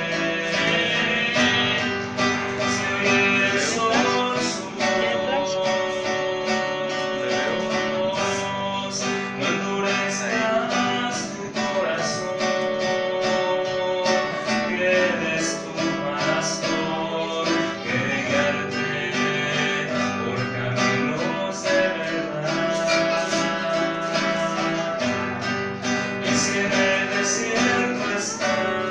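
Instrumental break of a worship song: guitar playing, with strummed chords under held melody notes.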